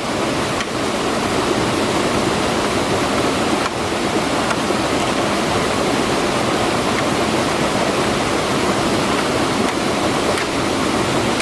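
Rushing water of a fast-flowing stream or waterfall, a loud, steady, unbroken roar.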